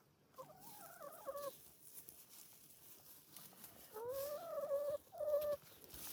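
Domestic hen giving drawn-out, wavering calls: one about half a second in, then a louder, longer one about four seconds in, followed by a short third note.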